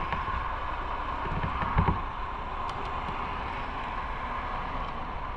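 Motorcycle running on the road, a steady engine rumble and hum under wind noise on the microphone, with a brief low knock about two seconds in.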